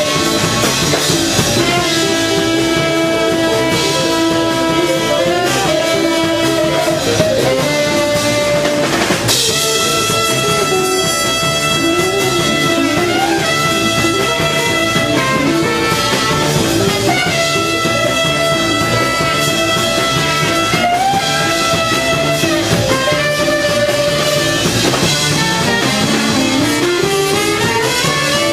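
Contemporary jazz quintet playing live: drums and cymbals under long held notes stacked in close pitches, with one long rising glide near the end.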